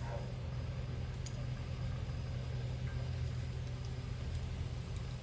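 An engine idling steadily with a low hum, with a few faint clicks over it.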